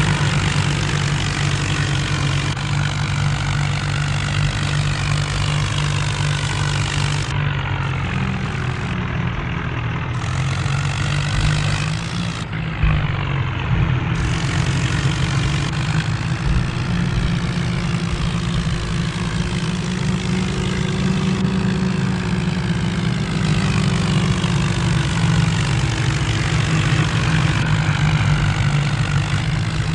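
Tractor diesel engine running steadily throughout.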